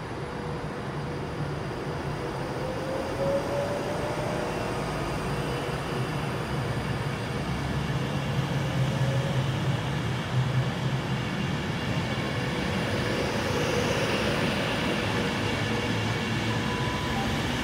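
Class 390 Pendolino electric train pulling away and gathering speed past the platform. A steady rumble of wheels on rail grows gradually louder, with a faint rising whine now and then.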